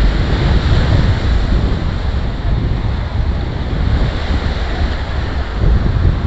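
Ocean surf washing continuously on a beach, with wind buffeting the microphone in an uneven low rumble.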